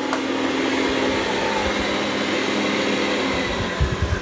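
Dreame X40 Ultra robot vacuum vacuuming carpet: a steady whir of its suction fan and brush roll with a low hum, and a few soft low bumps near the end.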